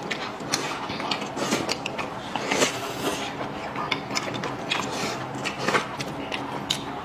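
Eating sounds: chewing, with chopsticks and utensils clicking and tapping against bowls in an irregular string of small knocks.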